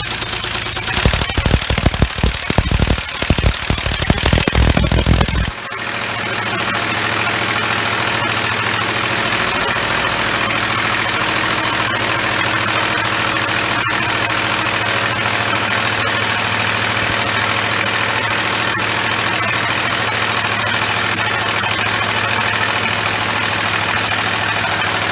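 Homemade three-cylinder compressed-air engine running with a fast, heavy clatter and knocking; the builder says it is badly out of balance. It stops abruptly about five seconds in, leaving a steady hum and hiss.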